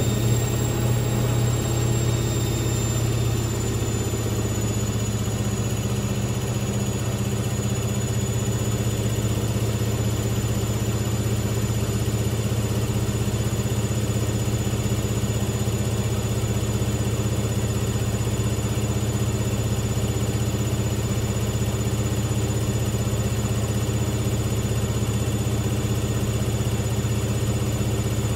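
Hoover VisionTech washing machine spinning its drum at a steady high speed: an even motor-and-drum hum with a faint high whine above it.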